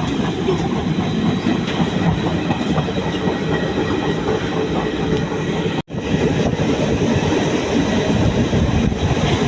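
A passenger train running along the track: steady wheel-and-rail rumble with clickety-clack. The sound cuts out for an instant a little past halfway, then carries on.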